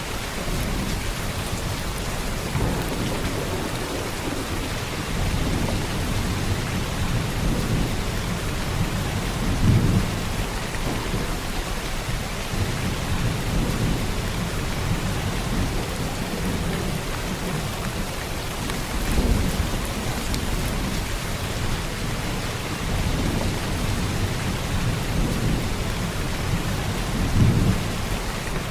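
Heavy rain falling steadily, with low rumbles of thunder swelling up several times: about a third of the way in, around two-thirds, and near the end.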